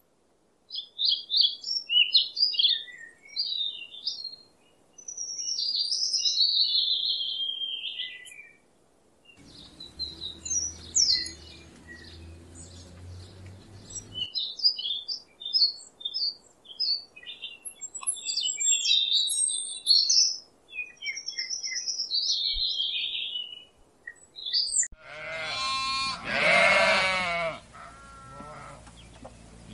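Small birds chirping and singing in quick, varied phrases. About 25 seconds in, this gives way to livestock bleating loudly with a wavering call.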